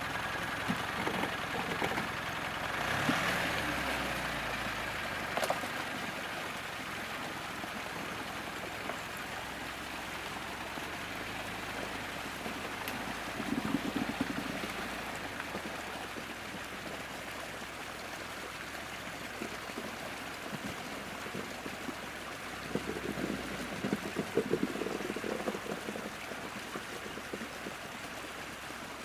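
Meltwater stream running, with an off-road SUV's engine running low underneath in the first few seconds and brief louder rumbles about a third of the way in and again near the end.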